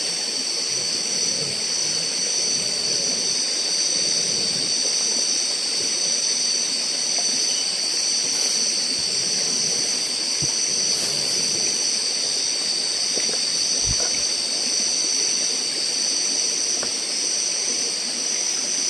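A steady, high-pitched chorus of tropical forest insects over a constant hiss.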